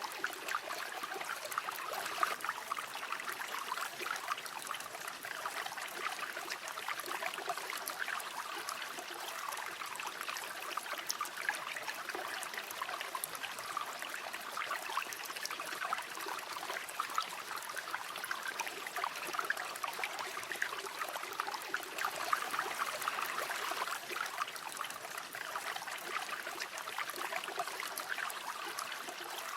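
A shallow river or stream running steadily, water babbling and trickling over stones.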